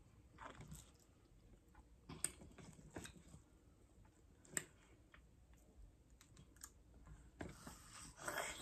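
Faint, scattered wet clicks and smacks of people chewing fruit close to the microphone, with a slightly louder bite into a slice of yellow watermelon near the end.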